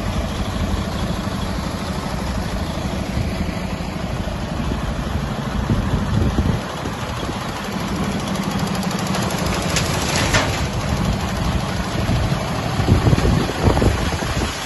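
Mercedes-Benz Actros 3235 tipper truck's diesel engine running steadily at idle, with a short high hiss about two-thirds of the way through.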